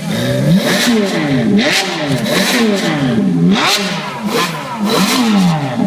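Ferrari F430's V8 engine being revved in a quick series of free-revving blips, about one a second, each rising and falling back toward idle.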